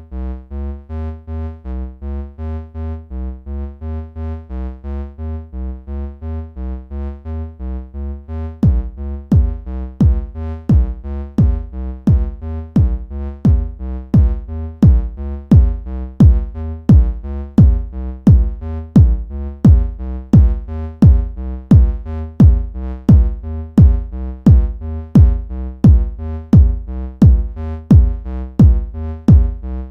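Electronic music: a synthesizer sequence of short repeating notes over a pulsing bass, about four notes a second. About nine seconds in, a drum-machine kick comes in on about every other note and the music gets louder.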